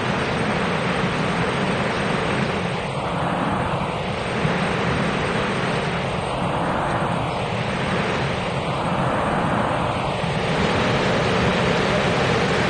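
Steady rumble of a push-pull Tze-Chiang express train approaching along the platform, with a slowly sweeping, hollow quality in the noise and a slight rise in loudness near the end as it nears.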